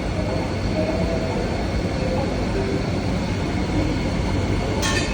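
Steady, fairly loud background rumble and hiss with a low hum, unchanged throughout, and one short sharp click near the end.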